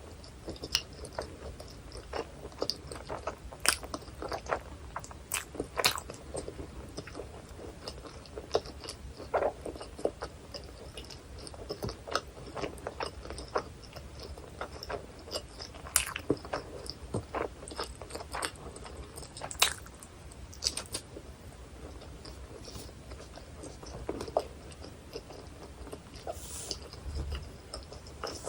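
Close-miked eating of a hot dog in a bun: bites and chewing with short, sharp crunches and wet mouth clicks at an irregular pace.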